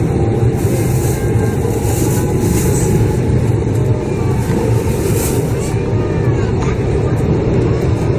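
Steady low rumble of a Shinkansen train running, heard from inside the passenger cabin.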